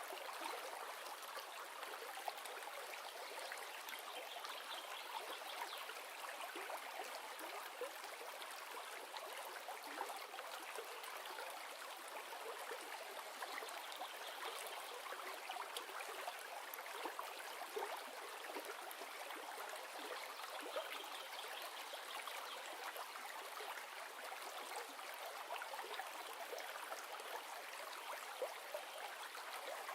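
A river flowing steadily over rocks, with small splashes and trickles.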